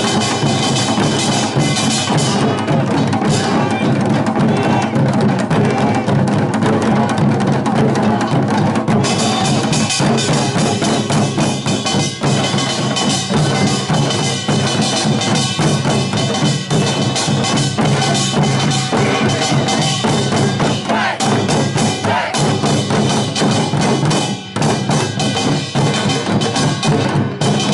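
Korean pungmul percussion band playing, drums and gongs beaten together in a dense, continuous rhythm.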